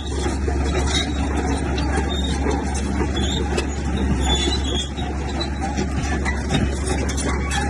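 Heavy earthmoving machinery running, with a steady low diesel-engine drone and constant mechanical noise.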